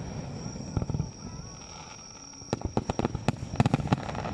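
Fireworks bursting overhead: a few sharp bangs a little under a second in, then a quick string of crackling reports from about two and a half seconds on.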